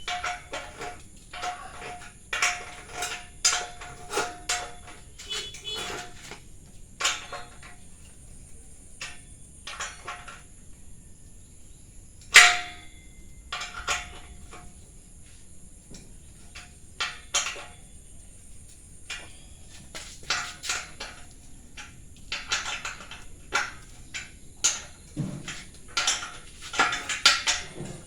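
Steel parts clinking and knocking together at irregular intervals, some strikes ringing briefly, with one sharper metal strike about halfway through.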